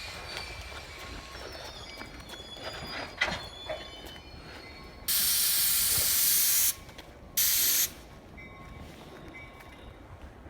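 Commuter train's air brakes venting in two loud hisses, the first about a second and a half long, the second shorter and close after it. Underneath are faint high squeals and a few clanks from the train.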